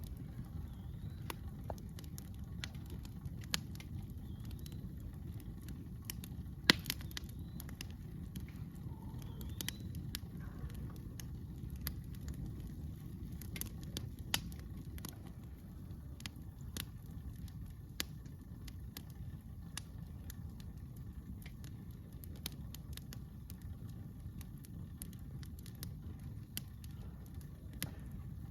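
Campfire crackling, with scattered sharp pops and one louder pop about a third of the way in, over a steady low rumble.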